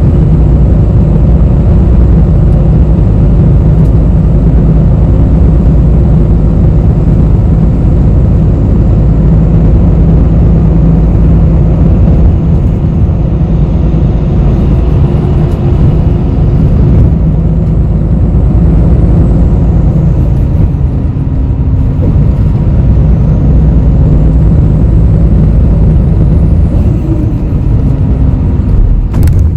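Inside a moving bus: steady low engine and road rumble, with engine tones that shift in pitch about two-thirds of the way through. A short sharp click comes near the end.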